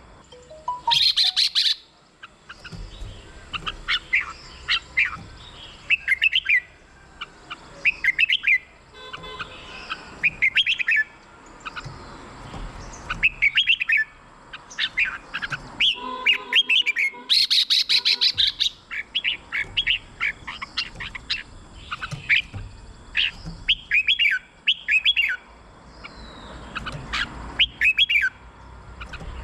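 Red-whiskered bulbul singing: short, bright whistled phrases repeated every second or so, with a brief rattling burst about a second in and another just past the middle.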